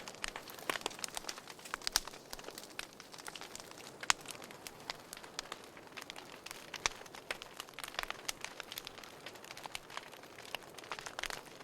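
Wood fire burning in a fireplace, crackling with irregular sharp pops and snaps over a soft steady hiss. The loudest pops come about two, four and seven seconds in.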